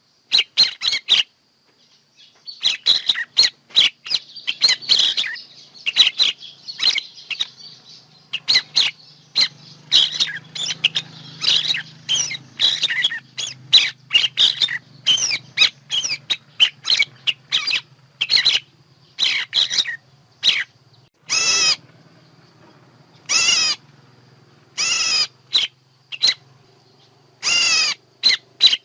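Birds calling in a fast run of short, sharp chirps. Later come a few separate harsh calls, each about a second long.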